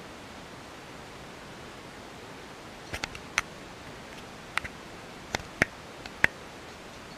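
Steady rushing noise of a train carriage in motion, with wind past the open window, and a run of about eight sharp, irregular clicks starting about three seconds in.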